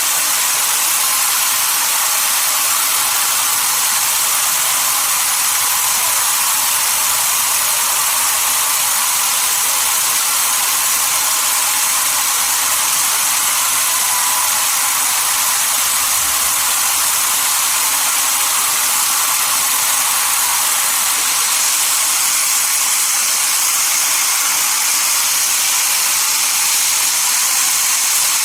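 Sawmill machinery running with a steady, unchanging high-pitched hiss.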